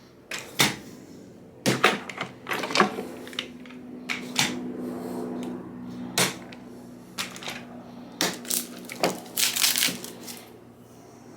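Clamps being set and tightened on a glued-up wooden handle blank: a run of sharp, irregular clacks and knocks, thickest around two to three seconds in and again near the end, over a steady low hum for most of it.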